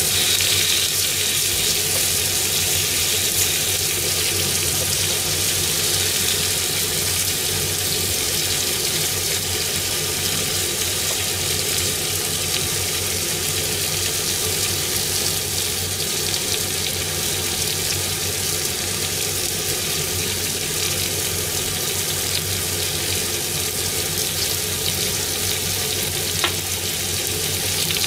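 Hamburg steak patties and carrots sizzling steadily in a sukiyaki pan, with one sharp click near the end.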